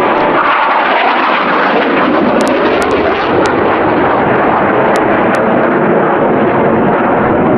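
Loud, steady jet engine noise from the Blue Angels' F/A-18 Hornet jets in flight during the demonstration.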